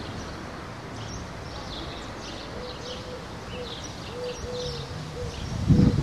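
Small birds chirping and twittering in many short calls over a steady low outdoor rumble, with a loud low thump close to the end.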